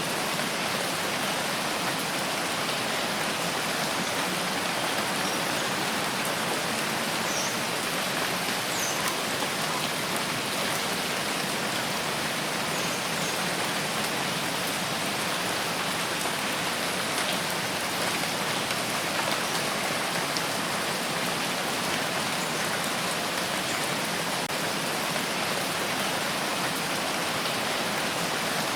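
Steady rain falling: an even, unbroken hiss of many drops with no rise or fall.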